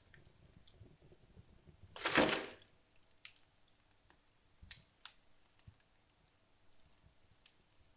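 Wood logs burning in a fireplace, crackling with sparse sharp pops. About two seconds in, one louder, half-second burst stands out.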